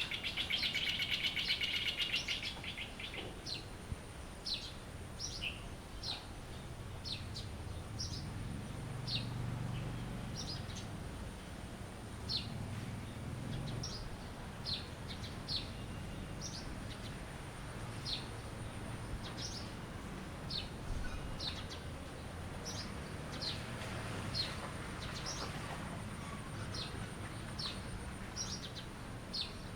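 Birdsong: short, high chirps repeat roughly once a second, with a rapid buzzy trill in the first two seconds. A faint, steady, high thin tone and a low rumble run beneath.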